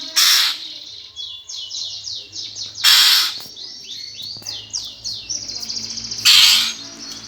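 Eurasian tree sparrows squabbling: rapid runs of sharp downward-sliding chirps, broken three times by a loud harsh rasping call about half a second long, with a fast buzzing trill just before the last one.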